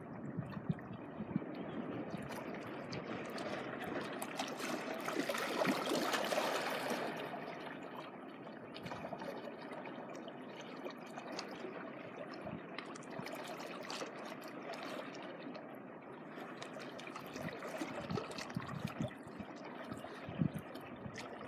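Seawater washing on the shore: a wave surges in about five seconds in, then the water keeps lapping and trickling back with a fine crackle.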